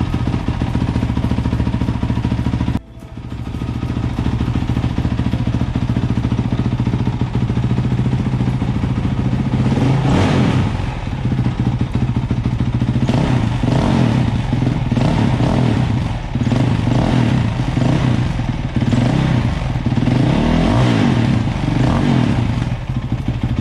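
Honda CRF450X's single-cylinder four-stroke engine running for a sound test. It idles at first, then gets several throttle blips from about ten seconds in, the revs rising and falling each time.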